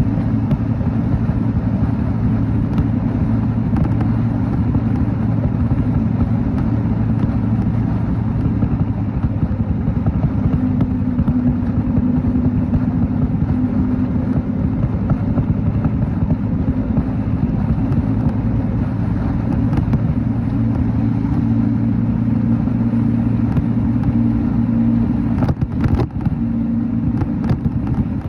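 Motorcycle engine running steadily while riding, heard from on the bike with road and wind rumble. A few sharp clicks come near the end.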